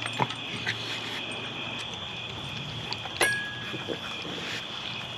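Crickets trilling steadily at night, with scattered light clicks and knocks of raccoons handling toys. About three seconds in, one sharper knock is followed by a short ringing tone.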